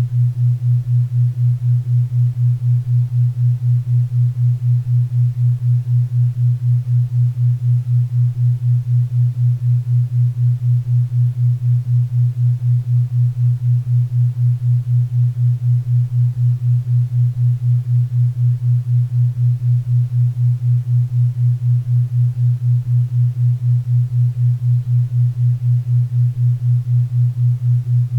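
4 Hz theta-wave beat: a low, hum-like pure tone pulsing evenly about four times a second, over faint pink and brown noise.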